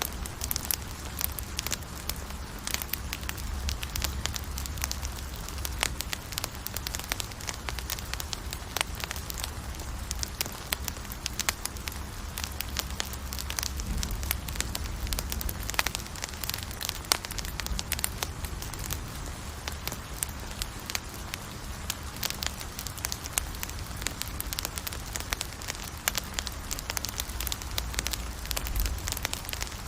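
Campfire burning, with dense, irregular crackles and pops throughout over a low steady rumble.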